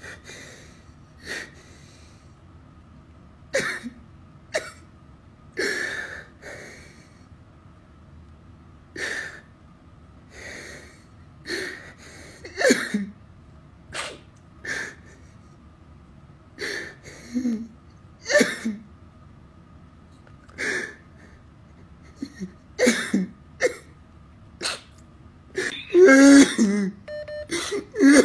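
A person's voice making repeated short breathy bursts, like coughs or sobs, some ending in a brief falling voiced sound. A longer voiced outburst comes near the end.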